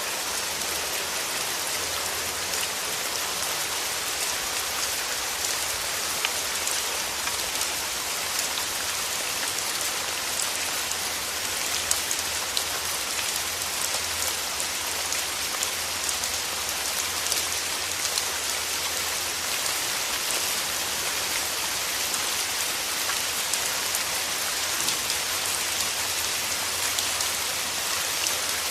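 Steady rain falling through forest trees, a continuous hiss dense with small drop patters.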